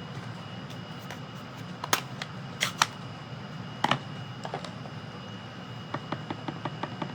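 A few sharp clicks, then a quick run of light taps, about five a second, near the end: an ink dauber being handled and bounced onto cardstock to colour leaves.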